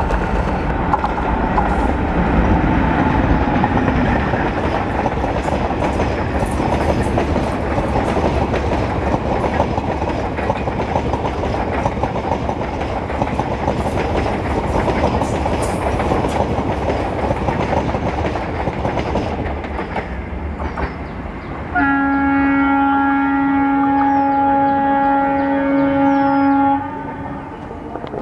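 An electric-hauled Indian express train, a WAP4 locomotive with a rake of coaches, running past at speed; its wheels rumble and clatter over the rail joints. About three-quarters of the way in, a train horn blows one long steady note for about five seconds, then stops sharply, and the rumble fades.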